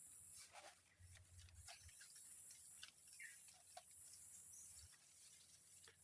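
Near silence: faint forest ambience, a steady high-pitched hiss with scattered soft ticks and taps.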